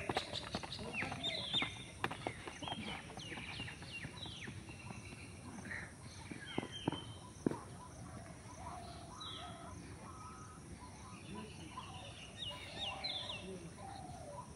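Birds chirping outdoors, many short falling chirps throughout. Quick footsteps tapping on packed dirt in the first couple of seconds, and two sharp clicks about halfway.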